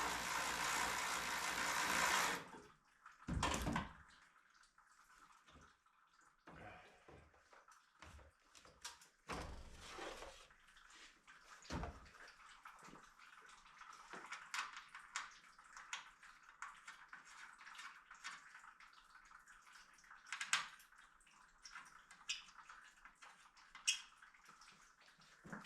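A small motor, like a power tool, runs steadily for about two seconds and then stops. After that come scattered light clicks and knocks of tools and car parts being handled, over a faint steady hiss.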